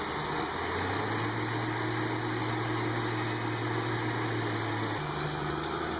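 A log skidder's diesel engine running steadily. Its note shifts about a second in and again about five seconds in.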